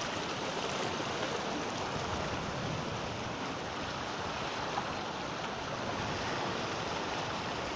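Sea surf: waves breaking and washing in a steady, unbroken rush.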